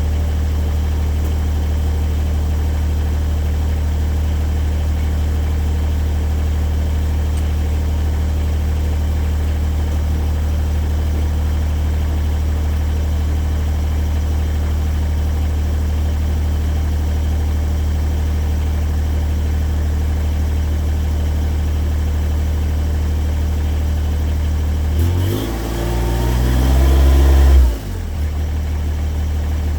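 Kubota 2670 compact tractor's diesel engine running steadily. About 25 seconds in it dips, then revs up for a couple of seconds and drops back suddenly to its steady running.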